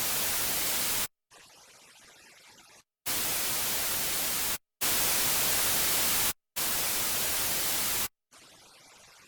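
Pink noise test bursts for a Dolby Surround speaker set-up, each about a second and a half long with short silent gaps, stepping through the left, center, right and surround channels. Every fourth burst, the surround one, is much quieter and duller than the others.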